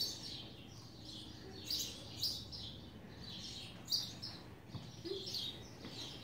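Small birds chirping in short, high, downward-sliding chirps that come in little clusters every second or so, over a faint steady low hum.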